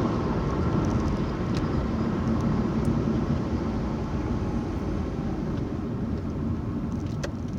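Steady road and engine noise of a car being driven, heard from inside the cabin, easing off slightly over the few seconds.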